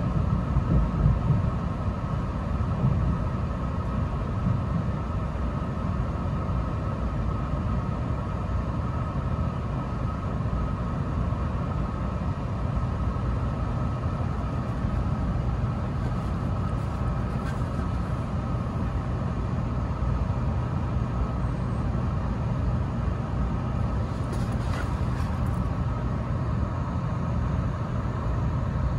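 Cabin running noise of a moving Shinkansen-type electric train: a steady low rumble with a constant mid-pitched hum above it.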